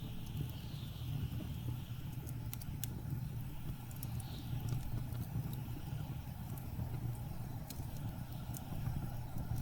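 Blizzard wind blowing with a steady low rumble and whooshing gusts that rise and fall, over a wood fire crackling with scattered sharp pops.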